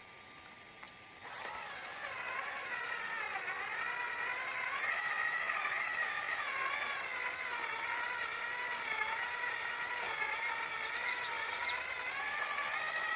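Electric drive motor and gearbox of a radio-controlled model truck whining, its pitch wandering up and down as the throttle changes; it starts about a second in.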